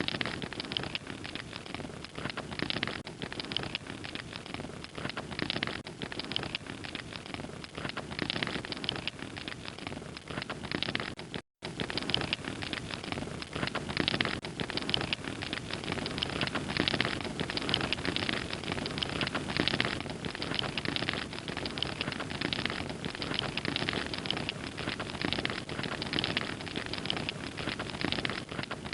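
Wood fire crackling steadily, a dense run of small pops and snaps, with a split-second dropout to silence about eleven seconds in.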